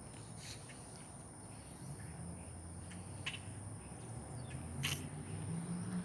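Quiet outdoor background with a steady high-pitched insect trill and three short, sharp sounds spread across a few seconds.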